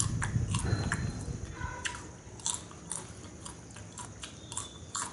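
A person chewing popcorn with irregular crisp crunches, heaviest in the first second and a half, then sparser.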